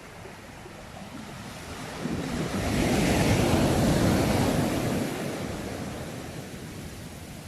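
Sea wave breaking and washing ashore: the surf swells about two seconds in, peaks for a couple of seconds, then slowly recedes.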